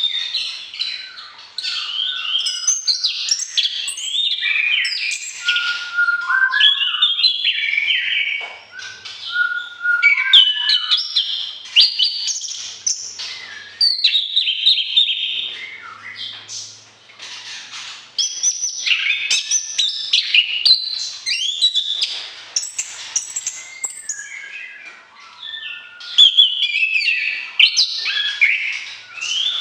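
A songbird singing a long, rich, varied song of quick chirps, trills and whistled phrases, pausing briefly a few times.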